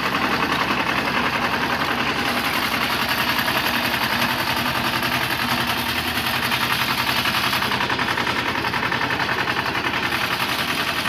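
Struck Magnatrac 6000 crawler tractor's two-cylinder diesel engine running steadily with a rapid, even beat.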